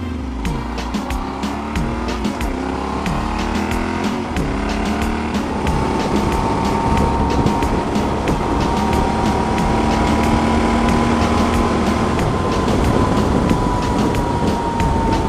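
Motorcycle engine accelerating through the gears, its pitch rising and dropping back with each shift, then holding a steady note at cruising speed with road and wind noise.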